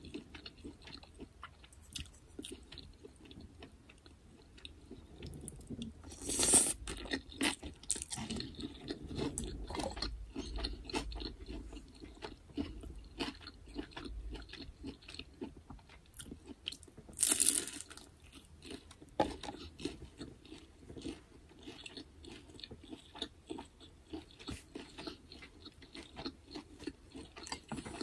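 A person chewing food close to the microphone, with wet mouth clicks and crunching bites. Two louder crisp crunches, about six and seventeen seconds in, fit bites of a fried egg roll.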